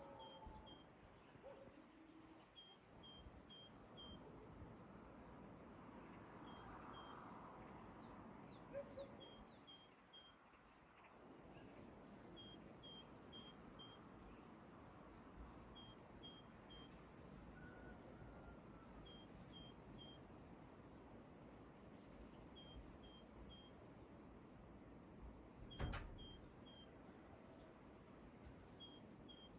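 Faint dawn birdsong: a bird repeating short phrases of three or four high chirps, over a steady high-pitched drone like crickets. A single sharp click near the end.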